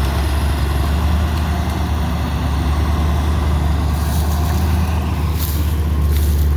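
John Deere log skidder's diesel engine running steadily with a deep, even hum, with a few brief high rattles about four and five and a half seconds in.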